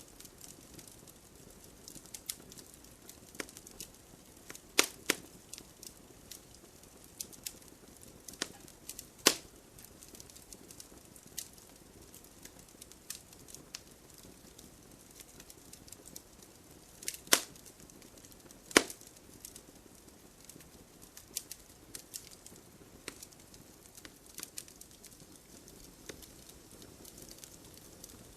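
Wood fire crackling in a fireplace: a steady scatter of small ticks with a few sharper pops, the loudest about five, nine, seventeen and nineteen seconds in.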